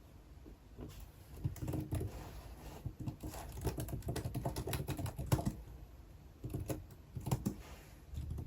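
Typing on a computer keyboard: a run of quick keystrokes for a few seconds, then a pause broken by a few single taps.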